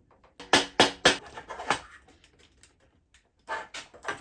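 Several sharp knocks and clicks in two clusters, one about half a second in and one near the end, from bicycle parts and tools being handled during a bike build.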